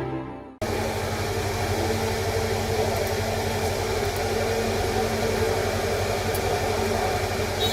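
Music cuts off about half a second in, then steady background noise: an even hiss with a constant low hum.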